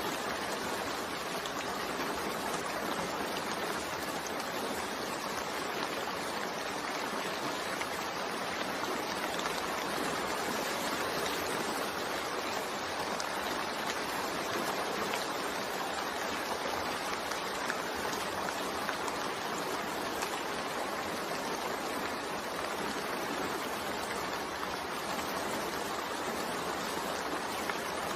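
Steady rain falling, a continuous even hiss of water with no distinct drops standing out.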